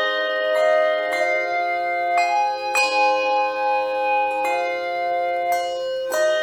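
Bells playing a slow melody, each note struck and left ringing into the next, about seven strikes.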